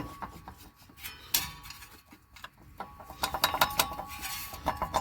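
Light metallic clinks and clicks of hand tools and metal engine parts, turning into a fast run of ticks about three seconds in.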